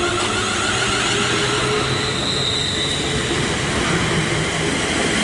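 A Class 350 Desiro electric multiple unit pulls away from the platform: steady rumble of wheels and running gear, with the traction motors' whine slowly rising in pitch as it gathers speed.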